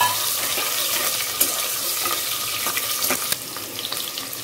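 Sliced onions and green chillies sizzling in hot oil in a steel pressure cooker, stirred with a metal slotted spoon that clicks against the pan a few times.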